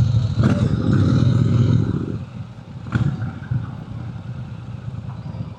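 Motorcycle engine running loudly at close range, then easing to a quieter, steadier level about two seconds in, with a couple of short clicks.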